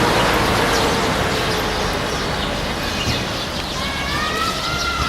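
Busy street traffic: a steady wash of vehicle noise, with a brief tone that bends in pitch in the last second.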